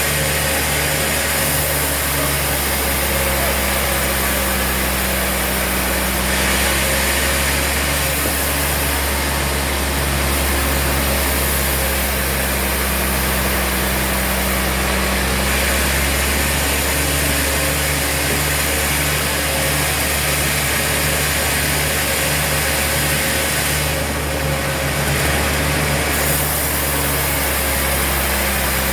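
Sawmill machinery running steadily, with a continuous hum and a regular low pulsing; the higher hiss shifts a couple of times.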